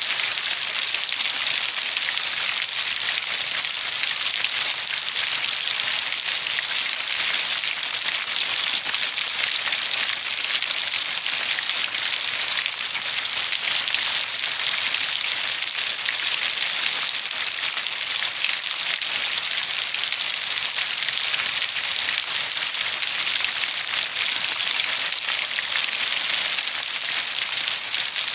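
Steady heavy rainfall, an even hiss of many drops pattering on a surface with no thunder or change.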